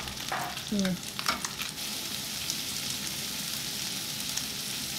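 Sliced red onions sizzling in hot oil in a frying pan as they begin to sauté, a steady frying hiss. In the first second or two a wooden spoon clicks and scrapes among the onions, then the sizzle carries on alone.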